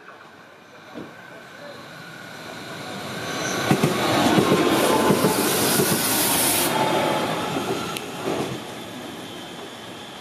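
BLS electric passenger train passing close by. Its noise grows as it approaches, wheels click over the track as it goes past and a high hiss peaks briefly in the middle, then the sound fades as it moves away.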